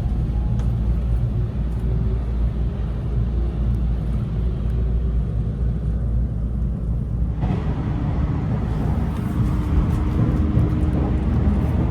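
Running noise heard inside a moving electric local train: a steady low rumble of wheels on rails, with faint humming tones over it. About seven seconds in, the noise grows brighter and a steady hum comes in.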